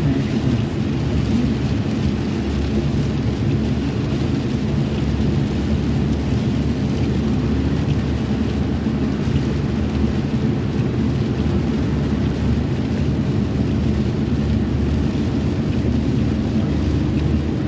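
Steady low rumble of a car driving, road and engine noise with no change in speed.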